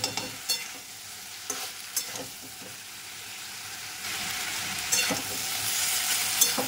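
Vegetables frying in a wok over full flame, stirred with a spatula: scrapes and taps of the spatula against the pan over a sizzle that grows louder about four seconds in.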